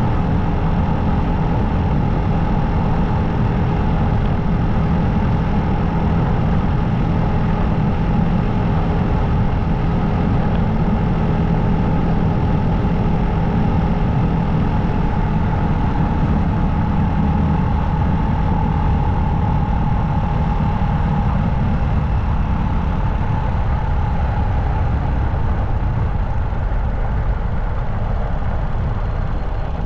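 Motorcycle engine running at a steady cruising speed, with heavy wind and road noise from riding. The engine note holds steady throughout.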